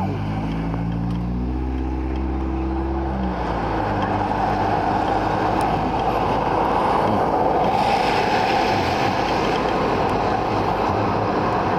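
A car engine accelerating, its pitch rising for about three seconds, then giving way to a steady rushing noise.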